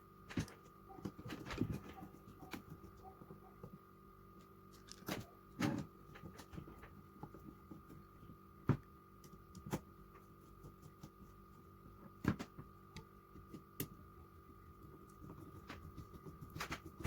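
Scattered clicks and knocks of a screwdriver and the carburettor's metal body being handled as the top-cover screws are snugged down, with long quiet gaps between them.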